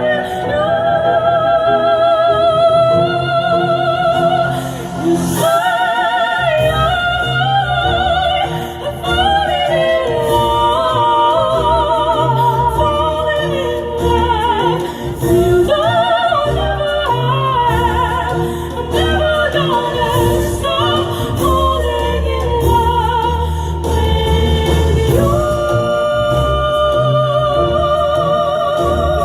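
Soprano duo singing in operatic style with wide vibrato, holding long notes over an instrumental backing.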